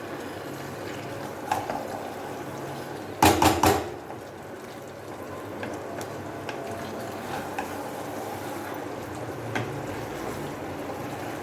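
Chicken curry bubbling steadily in a non-stick kadai, with a quick run of clattering knocks against the pan about three seconds in and a few lighter clinks later, as potatoes go into the pan.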